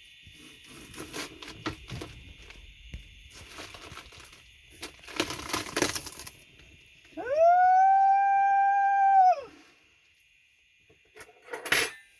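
A knife cutting through a moon and stars watermelon's rind, with crackling and crunching strokes for the first few seconds. Then a loud, long howl-like call about two seconds long, rising at the start, held at one pitch and falling away at the end. A single sharp crack comes near the end.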